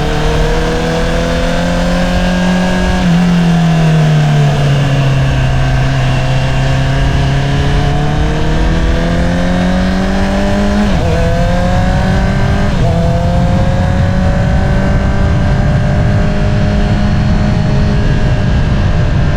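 2022 Honda CBR650R's inline-four engine through an Akrapovič single-outlet exhaust, under way: the revs climb, fall off for a couple of seconds, climb again, then drop twice in quick succession like upshifts about two-thirds of the way through before holding a steady cruise. A low rush of wind and road noise runs underneath.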